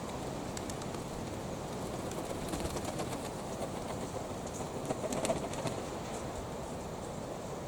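Pigeons, with scattered small clicks and rustles, over steady wind noise on the microphone.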